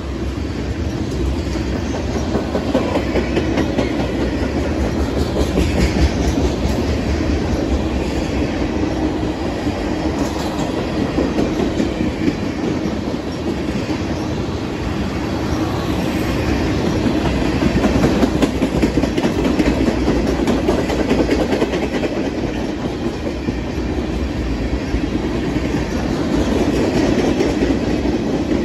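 Freight train of loaded tank cars rolling past at close range: a steady, continuous noise of steel wheels running on the rails.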